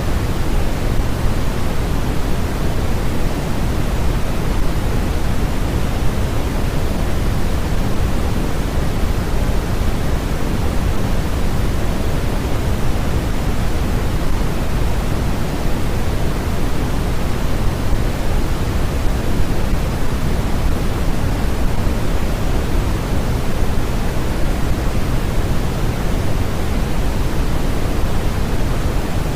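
Steady, unchanging synthetic noise of the kind played for sleep and focus, with its weight in the low end so it sounds deep rather than hissy.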